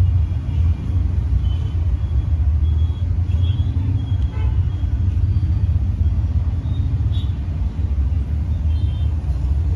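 A steady low rumble, with faint short high-pitched chirps a few times over it.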